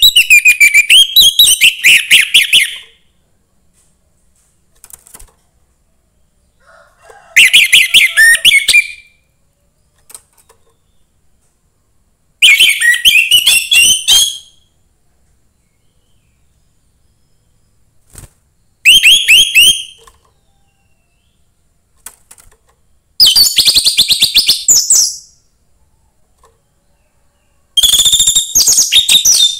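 Young wild orange-headed thrush singing: six loud bursts of rapid, high, twittering song, each about two seconds long, with pauses of a few seconds between them.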